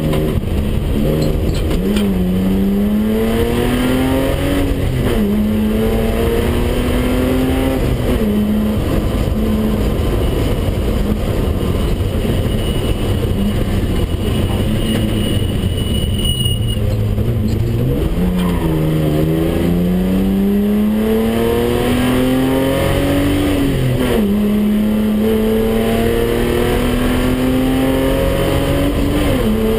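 BMW 320/6's straight-six engine heard from inside the cabin, pulling hard through the gears. Its pitch climbs and drops back at each upshift, holds steadier for a stretch mid-way, dips low briefly, then climbs through the gears again.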